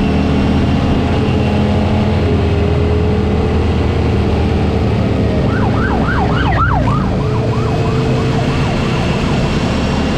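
Motorcycle engines running steadily, with a police siren's fast yelp, about five quick sweeps a second, cutting in about halfway through and fading out after a few seconds.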